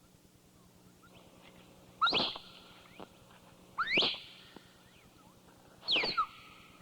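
Shrill animal-like squeals, three of them about two seconds apart, each rising sharply in pitch and then falling away. Fainter short chirps sound between them.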